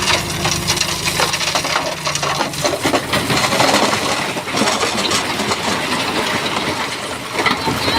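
Stones crunching and clattering as a Shantui bulldozer pushes them, with the dozer's engine humming low for the first couple of seconds before it fades under the rock noise.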